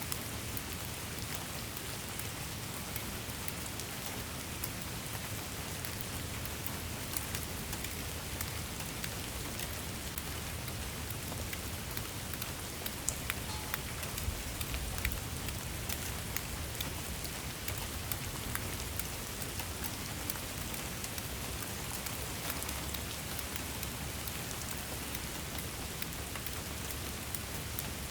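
Steady rain falling, an even hiss with many distinct drop ticks and a low rumble underneath.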